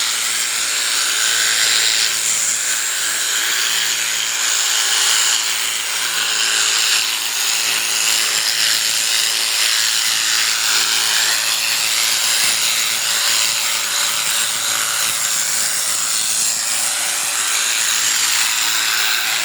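Electric sheep-shearing clippers running steadily as they cut through the fleece.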